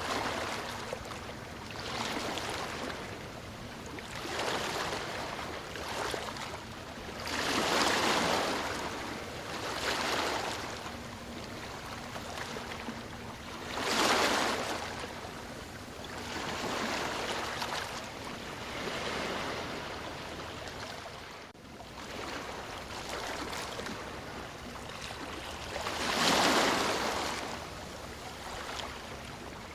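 Ocean waves breaking and washing in one after another, each a hiss that swells and fades over a few seconds. Three larger waves stand out, the loudest near the end.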